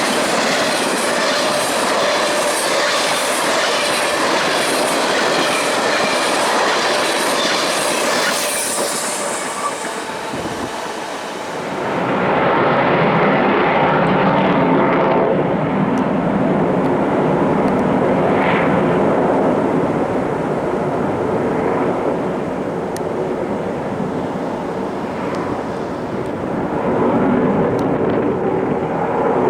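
Train running along the track, with a regular clickety-clack of wheels over rail joints for the first several seconds. About twelve seconds in, this gives way to a louder, lower, steadier rumble.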